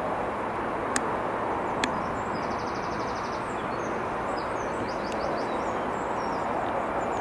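Steady rushing noise of an HST train running away into the distance along the line. A bird gives a short fast trill about two and a half seconds in, and two sharp clicks come about a second apart near the start.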